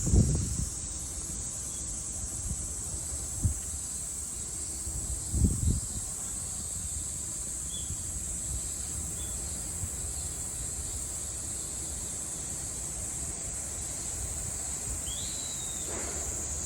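Cicadas singing in a steady, unbroken high-pitched drone. A couple of low thumps come at the start and about five seconds in, and a brief rising chirp near the end.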